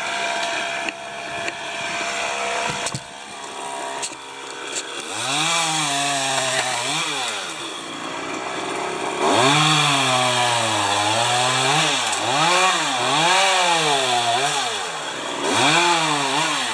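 Chainsaw revving up and down again and again as a climber cuts limbs from a spruce, the engine starting in about five seconds in. Before it there is rustling and a couple of knocks.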